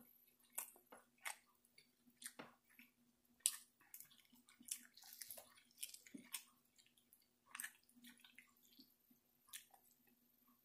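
Faint chewing and wet mouth sounds of a person eating roast beef and green beans, with scattered short clicks of a fork and knife against a glass plate as the meat is cut.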